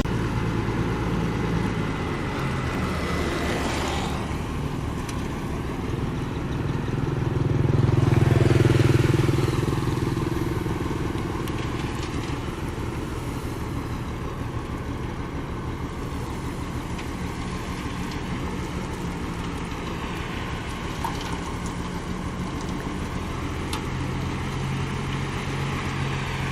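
Heavy machine's engine running steadily, with a dense low rumble. It swells louder about eight to nine seconds in, then settles back.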